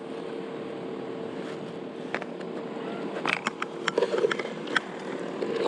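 Minn Kota electric trolling motor humming steadily while spot lock holds the kayak in place, with scattered light clicks and knocks from handling gear on the kayak.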